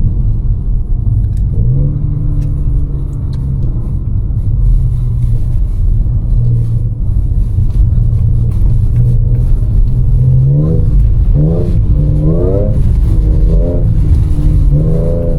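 Supercharged V6 of an Audi S5 pulling at a steady cruise, heard as a low drone with road rumble, its pitch stepping up briefly about two seconds in. From about ten seconds in, a wavering melody like music rises over the drone.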